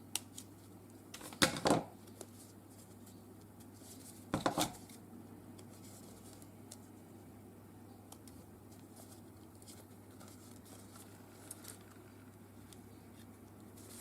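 Scissors cutting thin craft foam: a few sharp snips and clicks, the loudest about a second and a half in and again about four and a half seconds in, with only faint ticks between.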